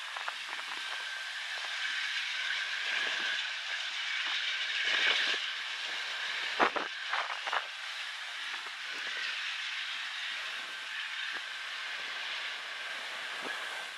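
Freight train rolling past: a steady hiss of wheels on rail with a thin, steady high tone. About seven seconds in comes a quick cluster of clicks from wheels over rail joints.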